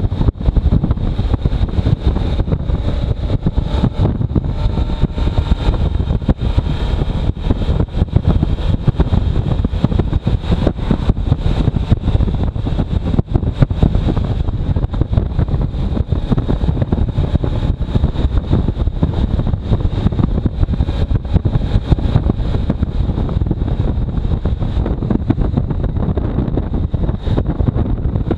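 Wind buffeting the microphone on a moving motorcycle, a loud, constant low rumble, with the motorcycle's engine faintly audible underneath.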